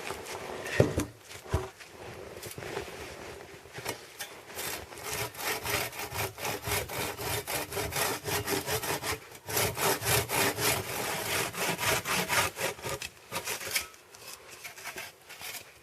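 Hand saw cutting through a dry, standing-dead pine trunk to make short firewood logs, in quick, even back-and-forth strokes with a brief pause near the middle. A couple of knocks come about a second in.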